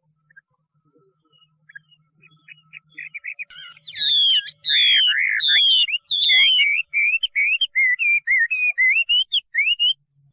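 Chinese hwamei singing. It starts with soft short notes, then about four seconds in breaks into a loud run of clear whistled phrases: a few long downward-slurred notes, then quicker notes rising and falling.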